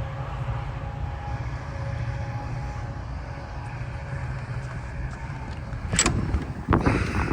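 Low, steady rumble of a departing Metra train's EMD F40PH-3 diesel locomotives, with faint steady tones above it. Loud bursts of noise break in about six seconds in and again near the end.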